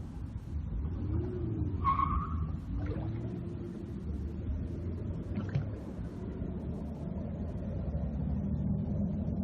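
Steady low rumble of road traffic, with a short high squeal about two seconds in.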